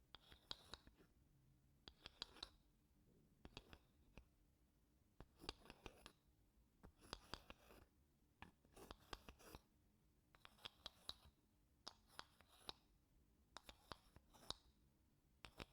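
Wooden spoon scraping across wooden blocks in short, faint strokes, one about every second or so; each stroke is a quick crackle of small clicks lasting about half a second.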